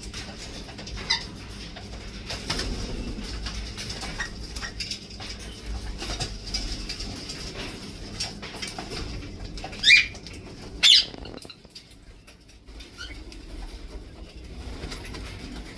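Pet parrots in their cage: scattered small clicks and rustling with a few short high calls, and two loud sharp calls about a second apart two-thirds of the way through.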